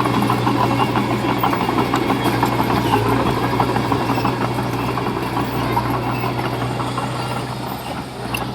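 Diesel engine of heavy earthmoving equipment running steadily, with clanking and rattling over it. It eases off slightly near the end.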